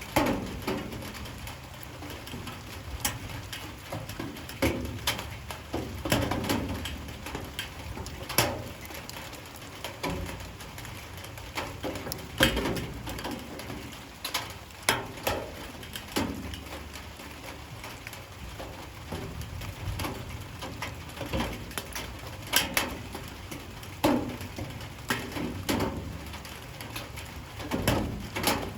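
Light rain with irregular water drops knocking sharply on hard surfaces, a few a second, over a steady low patter.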